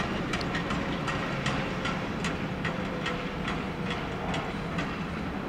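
Freight train drawn by an ÖBB class 1163 electric locomotive running into the station, its wagon wheels clicking irregularly over rail joints and points above a steady rumble.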